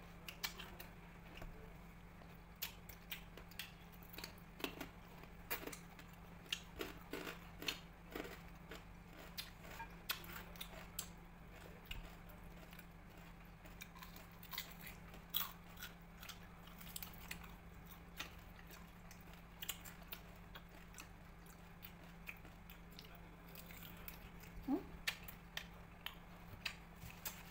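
People chewing and crunching beef chicharon, deep-fried beef skin cracklings, with many short crunches scattered throughout over a steady low hum.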